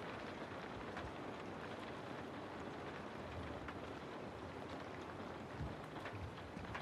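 Steady rain falling through forest trees, an even hiss with scattered single drops standing out.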